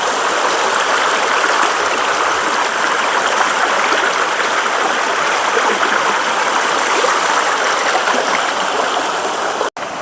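Small woodland river in spate, rushing steadily, swollen by heavy rain from a trickle to a raging flow up to its banks. The sound breaks off for an instant near the end and comes back quieter.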